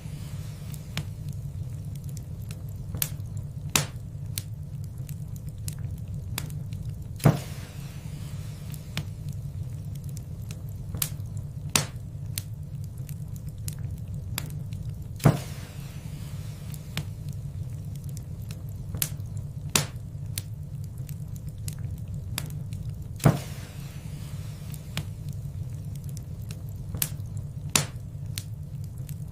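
Wood fire in a fireplace crackling: a steady low rumble of burning with scattered sharp pops, three much louder pops spaced about eight seconds apart.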